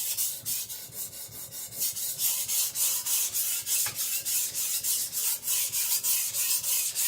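Steel cleaver blade stroked back and forth on a wet whetstone, an even gritty rasp at about three strokes a second, a little quieter about a second in: sharpening to set the edge.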